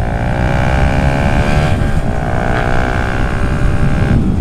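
Yamaha New Vixion Advance's 150 cc single-cylinder four-stroke engine accelerating, its pitch rising, falling sharply at an upshift about two seconds in, then climbing again until it drops near the end. There is a low wind rumble on the helmet microphone.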